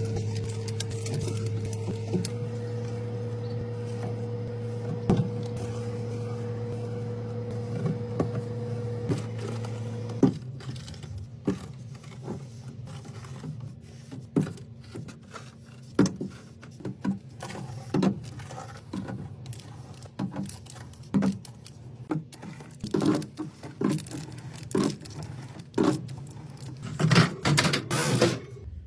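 A steady low hum that stops about ten seconds in, then a string of short clicks and knocks as containers and food items are handled and set down.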